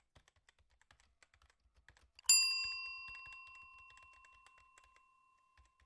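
Faint, irregular light clicks like typing on a keyboard. About two seconds in comes a single bell ding that rings out and fades over about three seconds.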